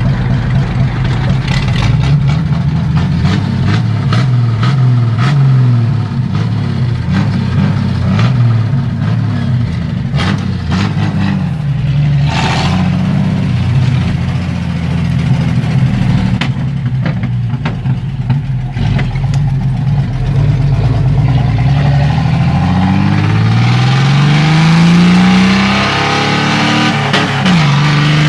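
Chevrolet 400 car engine running through an open exhaust (escape libre) while driving; its pitch rises and falls with the throttle. Near the end it pulls hard with a rising pitch, drops briefly at a gear change, then climbs again.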